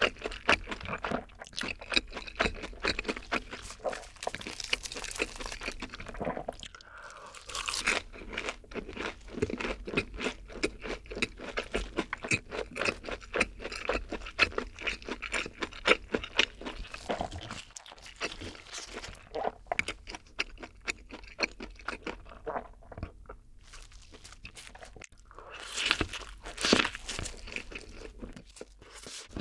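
Close-miked chewing of a fried, breaded cheese stick: crisp crunching and mouth sounds in quick, irregular bites. Near the end, a louder bite into and chewing of a double cheeseburger.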